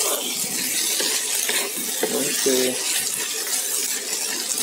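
Diced potato and sardine filling sizzling in a non-stick wok while a wooden spatula stirs and scrapes through it, with small clicks and scrapes over a steady sizzle.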